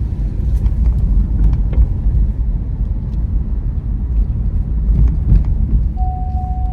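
Car driving slowly, with steady low road and engine rumble heard from inside the cabin and a few light clicks. A steady single-pitch beep comes in near the end.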